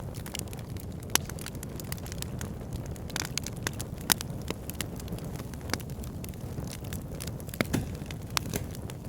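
Backyard fire pit burning, with frequent sharp crackles and pops at irregular intervals over a steady low rumble. A few louder pops stand out, about a second in, around four seconds in and near the end.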